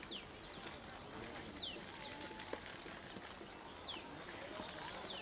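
A bird calling outdoors: short, high calls that slide downward in pitch, a few seconds apart, faint over a steady background hiss.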